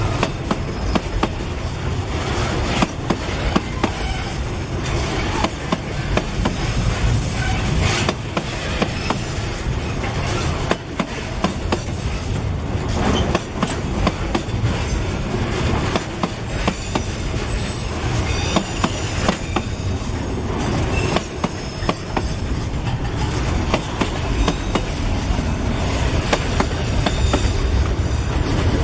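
Container-loaded freight flatcars rolling past close by: a steady wheel rumble with frequent clicks and knocks as the wheels cross the rail joints, and a thin high wheel squeal now and then.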